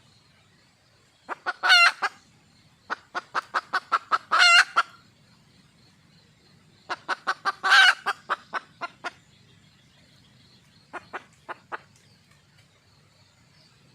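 Wild hen (red junglefowl) calling for a mate: three runs of quick clucks, each building to a loud drawn-out squawk, then a few softer clucks near the end.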